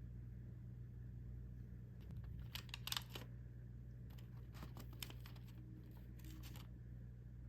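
Plastic food packaging crinkling and rustling in three short bursts of crackle, over a steady low room hum.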